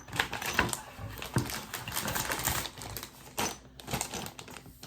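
A cardboard product box being opened and its contents handled by hand: irregular clicks and taps with rustling in between.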